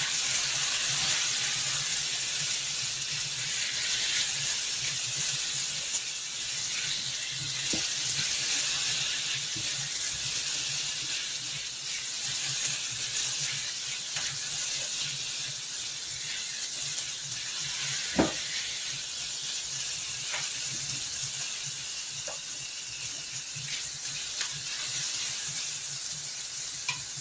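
Garlic, onion and tomato sizzling as they sauté in a frying pan: a steady hiss, with a few light clicks of stirring and one sharper knock about 18 seconds in.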